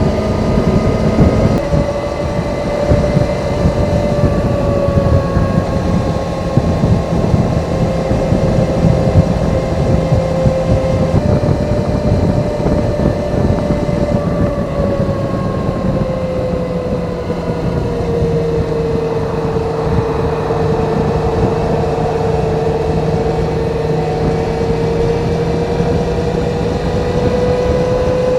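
Kawasaki ZZR400's stock inline-four exhaust at steady cruising speed, with wind and road noise. The engine pitch steps down about a second and a half in, changes again partway through, sags, then rises a little near the end.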